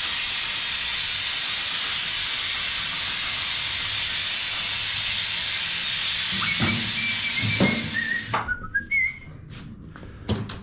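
Compressed air hissing steadily from a blow gun for about eight seconds, then cutting off sharply, followed by a few knocks and light squeaks.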